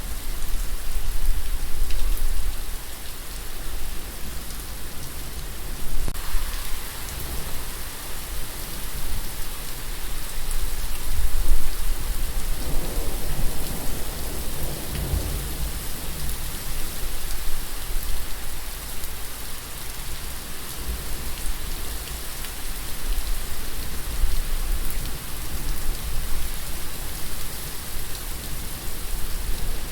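Steady rain falling, an even hiss of drops on a surface, with a low rumble that swells and fades about halfway through.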